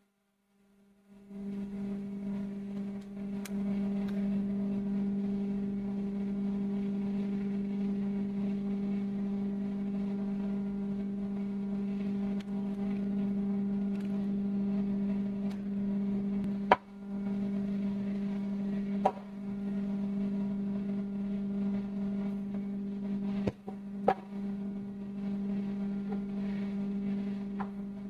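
Steady electrical hum, a mains buzz with a stack of overtones, starting about a second in. A few sharp clicks are scattered through it.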